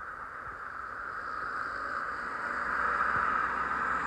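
XPT diesel passenger train passing close by: a steady rolling rush from the carriages, growing louder as the rear diesel power car comes level near the end, with a low engine hum underneath.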